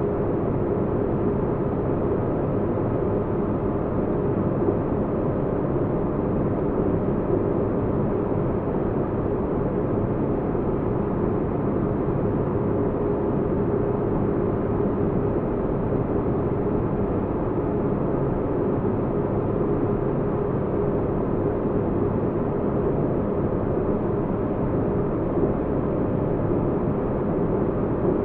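Sci-fi spaceship interior ambience: steady white noise with deep bass and a faint steady hum held at one pitch, unchanging throughout.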